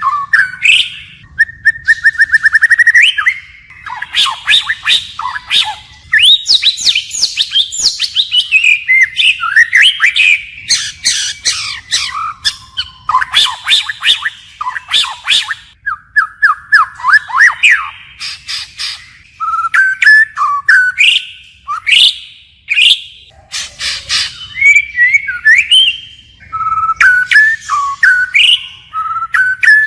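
White-rumped shama singing continuously in its wild-type song, switching phrases without pause. The song mixes clear whistles and glides with a fast, even trill and sharp clicking notes.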